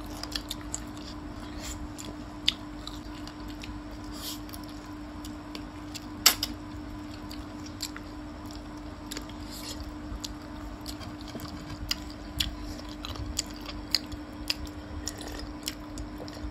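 Close-up mouth sounds of eating gravy-coated chicken feet by hand: wet chewing and squishing with many small clicks, one sharper click about six seconds in, over a steady low hum.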